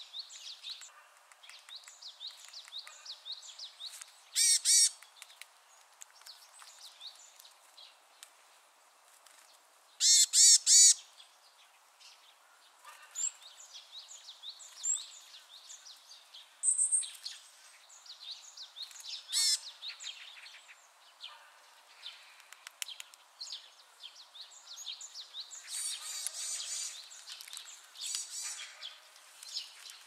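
Wild songbirds calling: a running background of faint high chirps, broken by a few loud, sharp calls about four seconds in, three in quick succession around ten seconds, and more near seventeen and nineteen seconds. A denser burst of calling comes near the end.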